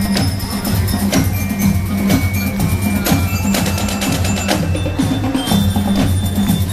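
Marching showband playing: drums beating a dense rhythm with high, ringing glockenspiel-like notes over a steady low part.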